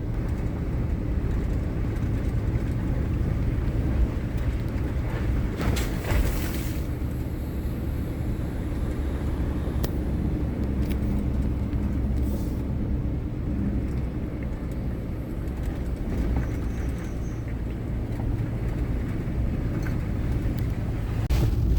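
Power Wagon pickup truck driving in four-wheel high along a muddy dirt road: a steady low engine and tyre drone, with a brief rush of noise about six seconds in.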